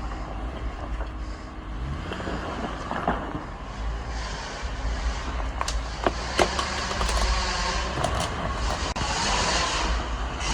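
Jeep engine running low and steady as it creeps over a dirt trail, with a few sharp knocks and clicks from rocks and the vehicle.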